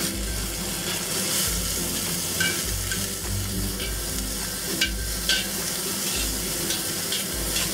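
King mushroom slices sizzling in hot oil in a cast iron wok while being seared. A few brief clicks come as metal tongs knock against the wok, turning the pieces over.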